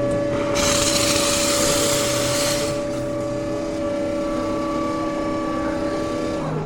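Electric coffee grinder motor running with a steady whine, then winding down and stopping near the end. About half a second in, a loud burst of hissing lasts about two seconds.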